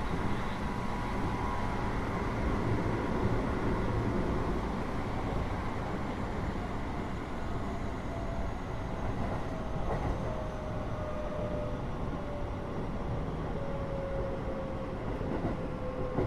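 Interior running sound of a Keio 8000 series electric train over its Hitachi GTO-VVVF controller: a steady low rumble of wheels and bogies, with a thin inverter and traction-motor whine that slowly falls in pitch over the second half as the train slows.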